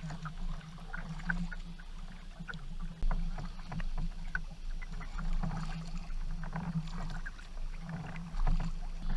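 Canoe paddles dipping and pulling through water, with scattered small splashes and drips, and louder strokes about three seconds in and near the end.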